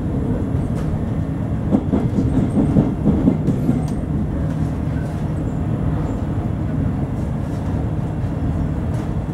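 Double-decker passenger train running at speed, heard from inside the carriage: a steady low rumble with a short run of clattering knocks about two seconds in.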